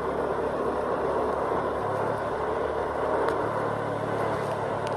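Vehicle driving along a road: steady road and wind noise over a low engine hum.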